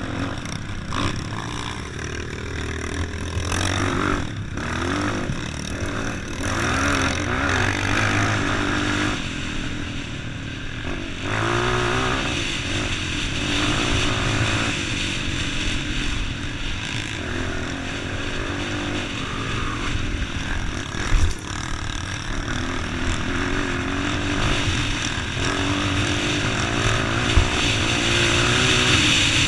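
A motor vehicle's engine running steadily, its pitch wavering slightly, with a couple of brief knocks.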